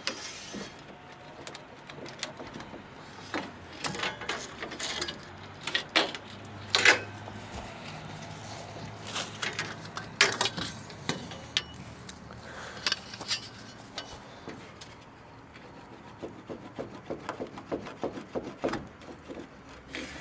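Irregular clicks, taps and rattles of a screwdriver, screws and interior trim parts being worked loose from a 1974 Chevy Nova's dashboard and trim. The sharpest knocks come about 7 and 10 seconds in.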